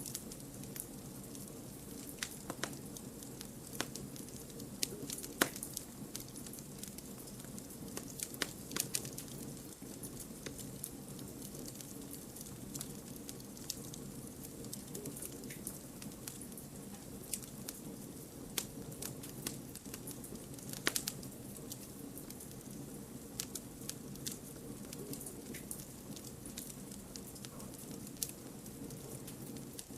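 Campfire of burning wood crackling, with a steady low rush of flame and frequent sharp, irregular pops and snaps, a few louder ones scattered through.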